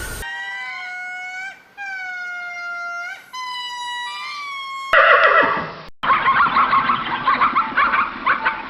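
Animal calls: three drawn-out, clear calls, each slightly falling in pitch, followed from about five seconds in by a rough, rasping, pulsing call.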